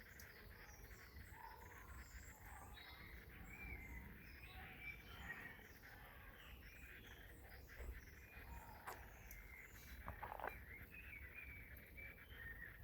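Quiet outdoor ambience with faint birds chirping and singing in the distance, and a couple of soft knocks about nine and ten seconds in.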